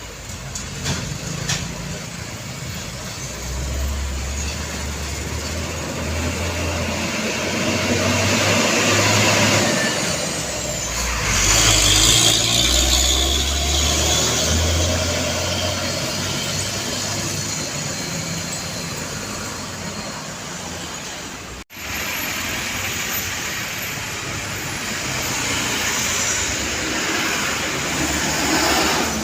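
Heavy diesel trucks passing on a road, their low engine drone swelling and fading as they go by, with tyre and traffic noise. The sound cuts off abruptly about 22 seconds in and resumes with more passing traffic.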